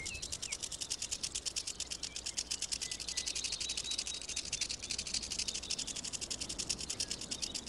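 A western diamondback rattlesnake shaking its tail rattle in a rapid, steady buzz: its defensive warning.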